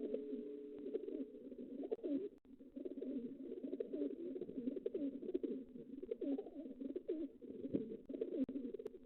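Domestic pigeons cooing, several calls overlapping without a break, with faint light clicks among them.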